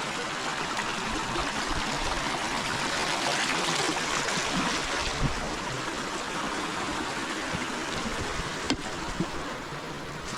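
River water flowing steadily over stones, an even rush that swells a little a few seconds in. A single sharp click comes near the end.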